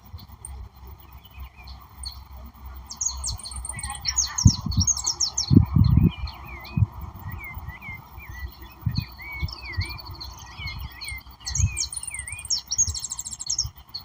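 Songbirds singing: two quick bursts of high twittering song, and between them a bird repeating short slurred whistles over and over, against a steady hiss. Irregular low rumbles come and go underneath.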